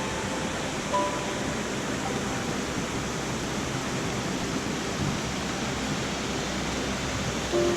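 Steady rush of the Laurel Falls waterfall, an even wash of falling water.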